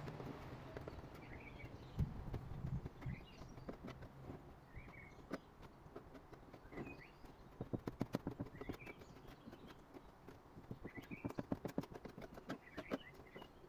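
Faint bird chirps, short and repeated every second or so, with several runs of rapid light clicking or tapping, about eight to ten clicks a second, about eight seconds in and again near the end.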